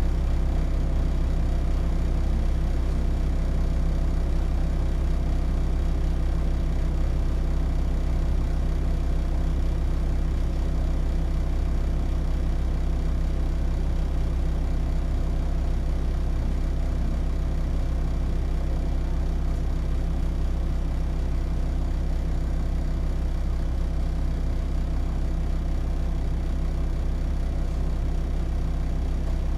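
Hino Rainbow HR city bus's diesel engine idling steadily, heard from inside the bus while it stands still.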